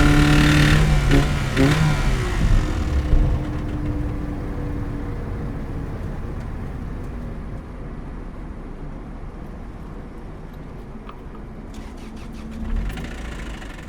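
A Toyota 1ZZ four-cylinder engine pulling hard, which cuts off abruptly about a second in. A few sharp clatters follow, then the car coasts, with a faint whine sliding slowly down and road noise fading away. A short low thump comes near the end.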